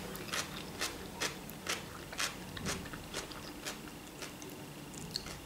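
A person chewing food with the mouth closed: soft, wet mouth clicks about twice a second.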